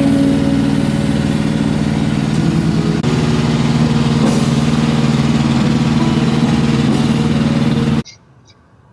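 A heavy truck's diesel engine idling steadily, then cutting off abruptly about eight seconds in.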